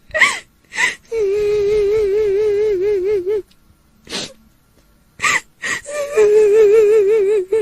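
A woman's voice wailing in the manner of a kuntilanak ghost crying: short sharp gasping sobs, then a long wavering held note, with the same pattern repeated about five seconds in.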